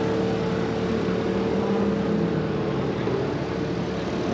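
Steady mechanical hum holding one constant tone over a broad background rumble.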